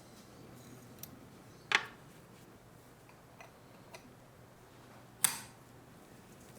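Sharp metallic clicks from pistol parts being worked by hand: two loud snaps about three and a half seconds apart, with a few faint ticks between them.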